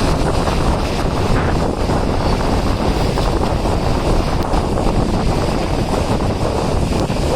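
Loud wind buffeting the microphone from a moving train, over the steady running noise of the train.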